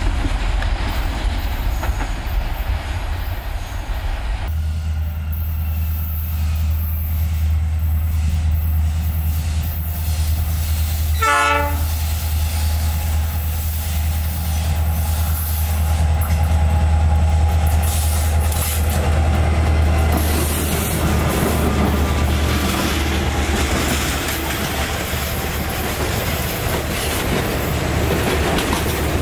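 Diesel freight train running: a low engine rumble as a locomotive approaches, with one short horn blast about eleven seconds in. Later, freight wagons roll past with wheel squeal and clicking over the rails.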